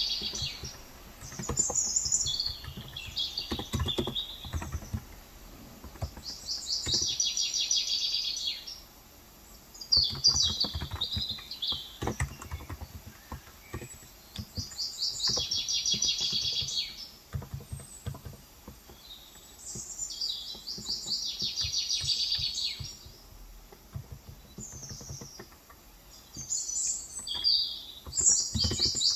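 Birds singing in short trilled phrases that come every few seconds, the loudest sound, with intermittent typing on a Cox Endeavour 35 g electro-capacitive (topre-style) tenkeyless keyboard clicking in between.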